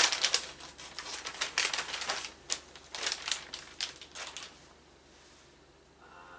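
Packaging being handled and unwrapped by hand: irregular crinkling, rustling and clicking that stops about four and a half seconds in.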